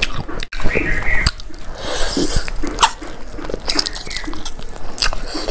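Close-miked eating sounds: wet chewing, lip smacks and irregular clicks of a mouthful of fried chicken and rice eaten by hand.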